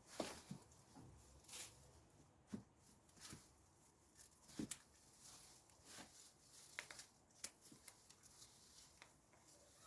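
Near silence with scattered faint rustles and clicks of handling.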